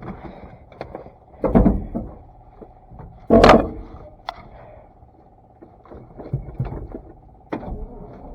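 Scattered knocks and clunks, with the loudest sharp clunk about three seconds in; no engine is running yet.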